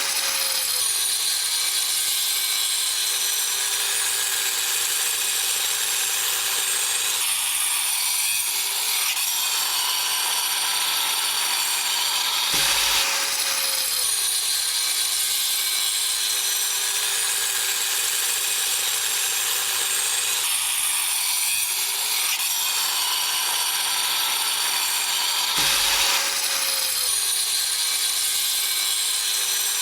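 Angle grinder with a diamond blade cutting through cast iron drain pipe: a steady grinding with a whining tone that dips and recovers as the blade loads. The same stretch of cutting comes round again about every 13 seconds, with a brief jolt at each repeat.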